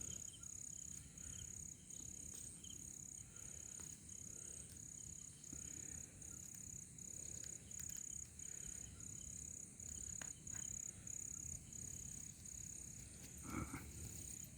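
Faint, steady insect chirping: a high-pitched trill that pulses on and off about one and a half times a second. Near the end there is one brief, louder rustle.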